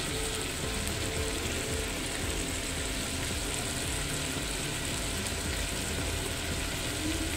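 Pineapple tikka skewers frying in oil in a non-stick pan: a steady sizzle.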